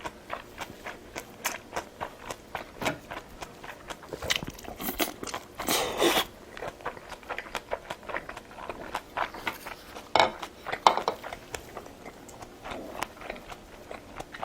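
Close-miked eating: chewing and biting food in a run of quick clicks, with a longer, louder noise about six seconds in and two sharper sounds a little after ten seconds.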